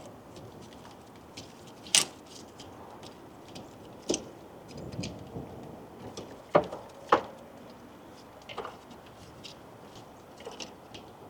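Hand tools clicking and knocking: irregular small clicks with four sharper knocks spread through.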